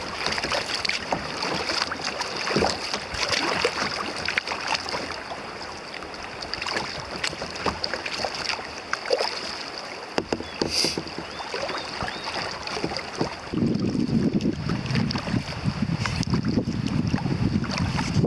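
Kayak paddling on a river: paddle blades dipping, with water splashing and dripping and small knocks against the boat. About three-quarters of the way through, wind starts buffeting the microphone with a low rumble.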